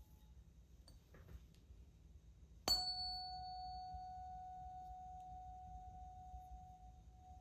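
A solfeggio tuning fork struck sharply nearly three seconds in, then ringing with one steady tone that fades slowly; a brief high overtone dies away within about a second. Faint handling ticks come about a second in.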